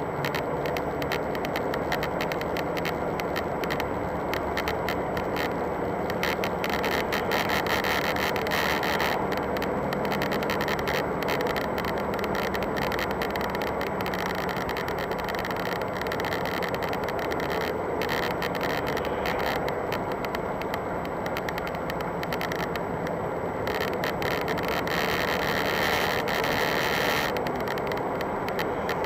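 A car's interior panel creaking and clicking in quick irregular bursts over the steady noise of the car, heard from inside the cabin.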